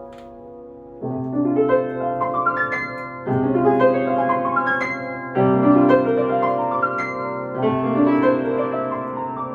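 Solo piano playing quick rippling arpeggio figures over held, pedalled bass notes, with a new bass chord struck about every two seconds. The first second is softer before the next chord comes in louder.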